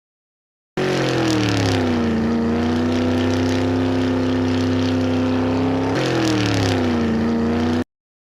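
Vehicle engine sound effect that starts abruptly. Its pitch drops and settles into a steady run, then drops and settles again about five seconds later, before it cuts off suddenly.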